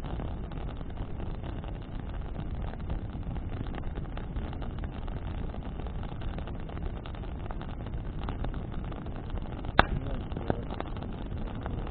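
Bonfire burning in the wind: a steady low rush of wind on the microphone under scattered small crackles from the burning wood. One sharp, loud pop comes near the end.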